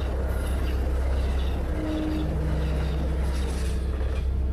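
Steady low rumble and running noise of a moving train.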